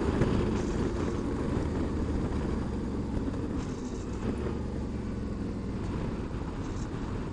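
Motorcycle engine running steadily while riding, with wind and road noise over the bike-mounted phone.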